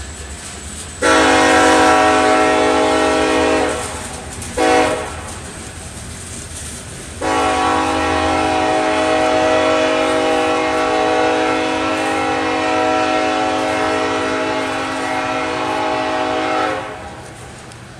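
A freight diesel locomotive's air horn sounds a multi-note chord: a long blast, a short blast, then a long blast held for about ten seconds. The locomotive's engine rumbles underneath.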